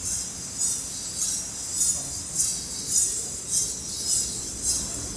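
Dancers' ankle bells jingling in an even rhythm, about two jingles a second.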